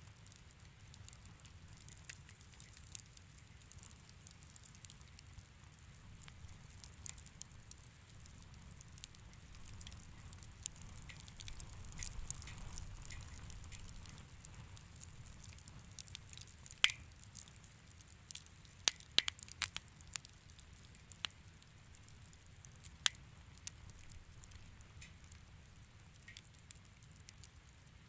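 Wood fire crackling in a fireplace: a low steady rumble of flames with scattered sharp pops, several louder ones in the second half.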